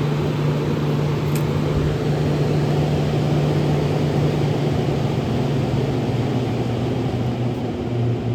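Blower fan of a 1984 Carrier Sierra window air conditioner running at speed: a steady rush of moving air over a constant motor hum.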